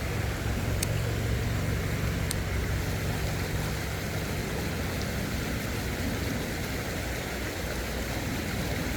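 Creek water running steadily, picked up on a phone's built-in microphone, under a low hum that fades out about halfway through. Two faint ticks come near the start.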